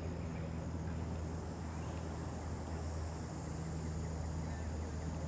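Steady low engine hum under an even outdoor background noise.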